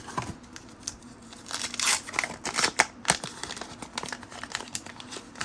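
1990 Fleer basketball trading cards being slid off a stack and flipped by hand: a run of papery rasps and small ticks of card stock rubbing on card stock, with a longer rasp a little under two seconds in.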